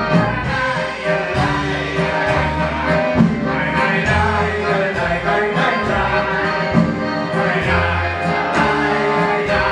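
Live klezmer band playing an instrumental passage between verses, with a steady bass line under sustained melody notes.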